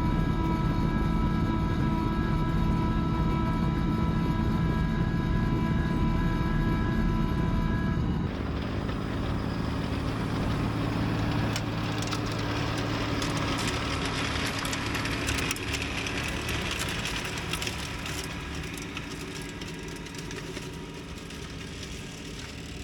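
Kubota LX2610 compact tractor's diesel engine running steadily under load, driving its PTO snowblower. About eight seconds in the sound changes abruptly to a quieter, lower hum with a rushing noise that builds and then fades toward the end.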